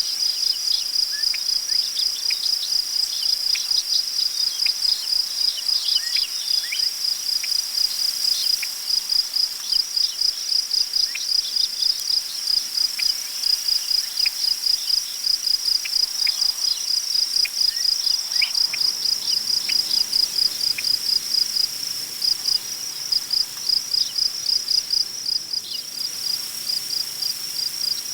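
Crickets chirping in a steady, even rhythm of high pulses, about two to three a second, with faint scattered short chirps above them. About two-thirds of the way in, a faint low rustle of wind joins.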